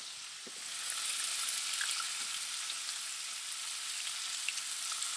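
Bacon strips sizzling and frying in a skillet: a steady high hiss with small scattered pops and crackles.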